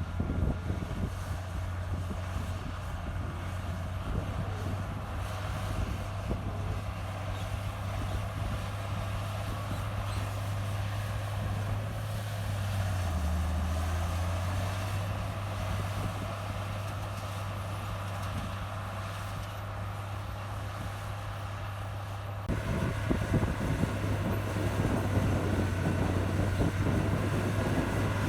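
Heavy diesel earthmoving machinery running steadily, its engine note dipping briefly about halfway through. About 22 seconds in the sound switches abruptly to a louder, rattling run.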